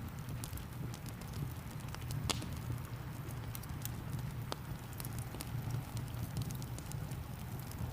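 Wood fire crackling, with scattered sharp pops (the loudest about two seconds in) over a steady low rumble and the light hiss of rain.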